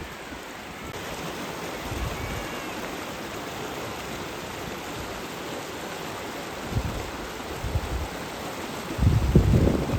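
Waterfall rushing steadily, with a low rumbling burst near the end.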